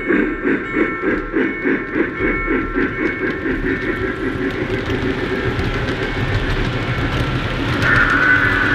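Lionel O-scale C&O F-19 Pacific model steam locomotive running on the track, its sound system chuffing in a steady rhythm that quickens as it gains speed until the chuffs blur into a continuous rush. A sustained tone sounds near the end.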